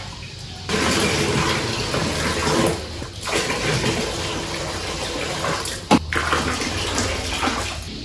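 Water running, as from a tap, in a steady rush that pauses briefly about three seconds in, with a single knock near six seconds in.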